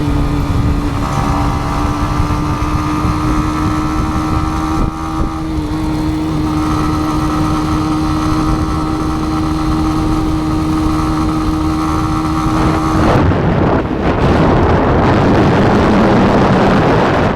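Yamaha MT-15's single-cylinder engine cruising at a steady, unchanging pitch, with wind noise on the action-camera microphone. About thirteen seconds in, the engine note is drowned out by louder wind rush.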